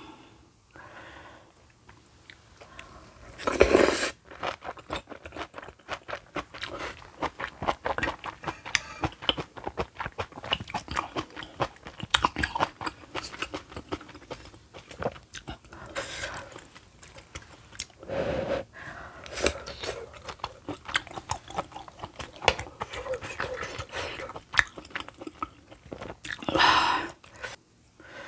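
Close-up chewing and wet mouth sounds of eating kimchi stew with rice: a quick, busy run of small crunches and smacks from cabbage kimchi, pork and sujebi dough. The sound swells twice, about four seconds in and near the end.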